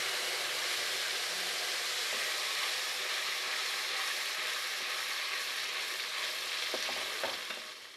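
Onion, garlic and tomato paste sizzling steadily as it fries in hot mustard oil in a steel kadai, with a couple of light knocks near the end before it fades out.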